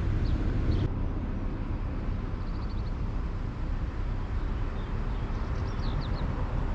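Outdoor ambience: a steady low rumble with small birds chirping several times, including a quick trill.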